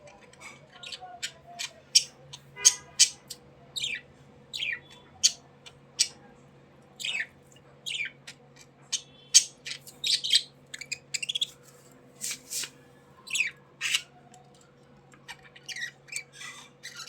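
Budgerigars chirping and squawking in a busy, irregular string of short, sharp calls, with a faint steady hum underneath.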